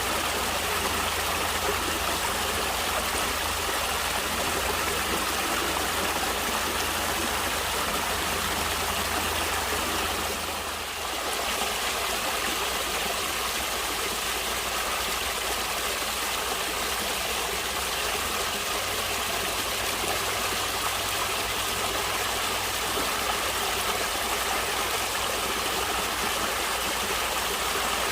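Stream water flowing and rushing steadily, with a brief dip in level about ten seconds in.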